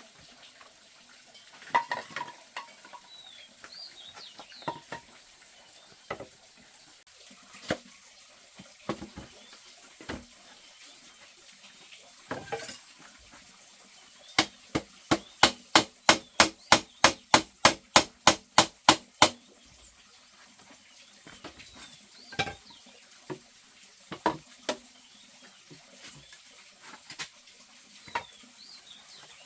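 Scattered knocks and taps, then a run of about twenty quick, even strikes at about four a second around the middle. Faint bird chirps sound in the background.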